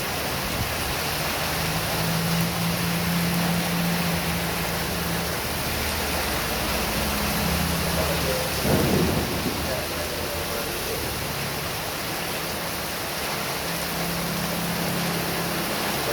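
Heavy rain pouring steadily, with a low hum coming and going underneath and a brief louder whoosh about nine seconds in.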